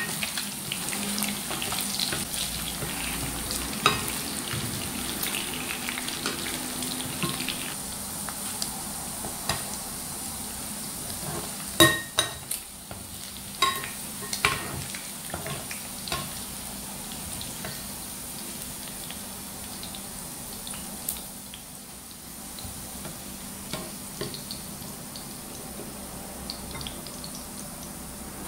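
Pieces of pork frying in hot oil in a nonstick wok, sizzling steadily with small crackles, while a spatula stirs and scoops the meat. A few sharp knocks of the spatula against the pan come about halfway through, and the sizzle grows quieter in the second half.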